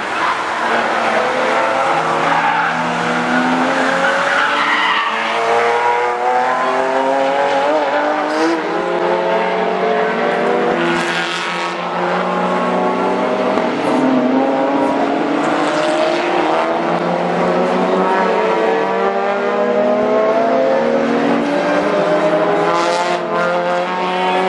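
Cars' engines running hard around a race track, more than one engine note at once, each pitch climbing steadily and dropping back at the gear changes, with some tyre squeal.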